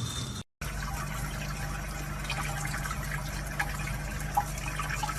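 Steady running water, like a tap running, starting after a brief silent gap about half a second in, with a low steady hum underneath and a few small splashes or clicks.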